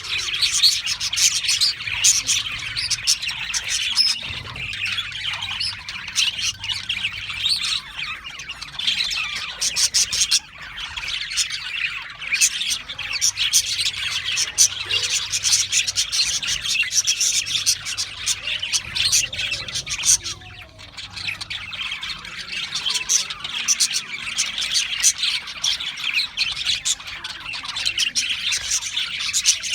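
Budgerigars chattering and chirping continuously, with many quick high calls overlapping.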